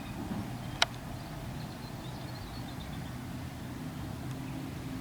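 Farm machinery engines running steadily at a distance as a low hum, with one sharp click about a second in.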